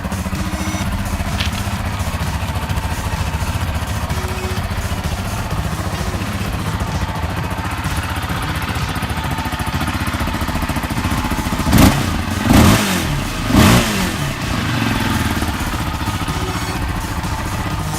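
An off-road vehicle's engine idling steadily, revved up briefly three times about two-thirds of the way through, then settling back to idle.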